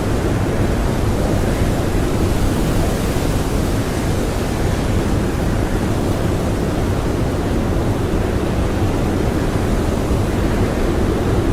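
Strong blizzard wind blowing steadily, a dense rushing noise with slight swells.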